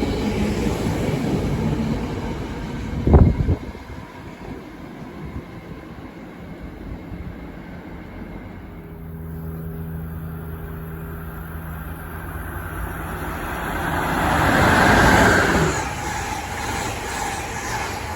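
Trains passing a station platform: a loud rumble ending in a sharp bang about three seconds in, then a steady low hum, then a rising rush of another passing train that peaks near the end and fades.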